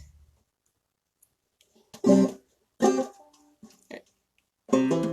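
Banjo in C tuning: two strummed chords about a second apart, a few soft plucked notes, then clawhammer playing starts near the end. The first strums are a check of the fresh retuning.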